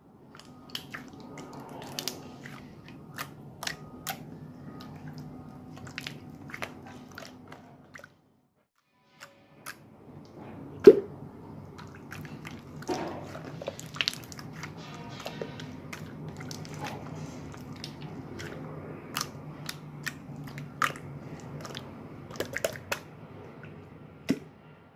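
Yellow slime squished and stretched by hand, making a string of wet clicks and pops. The sharpest pop comes about eleven seconds in, and the sound breaks off for a second or so around eight seconds.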